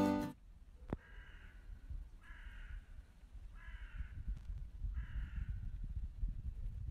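A bird calling four times, each call about half a second long and a second or so apart, over a low rumble.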